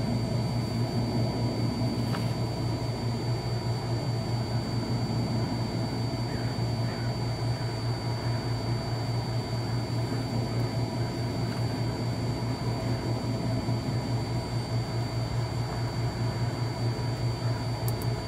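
Steady low machine hum with a faint constant high whine above it, and a single light click about two seconds in.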